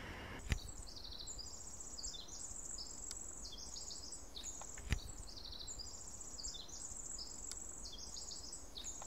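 Small songbirds chirping and trilling high in pitch, in quick repeated phrases. Two short clicks stand out, about half a second in and again near five seconds.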